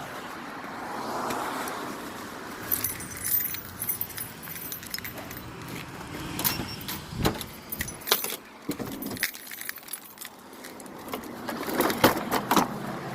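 Small metal objects clinking and rattling, with scattered knocks and a few bright metallic rings a few seconds in.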